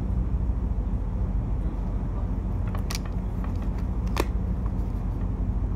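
Low, steady rumble of a double-stack container train passing close by, heard from behind window glass. Two sharp clicks come about three and four seconds in.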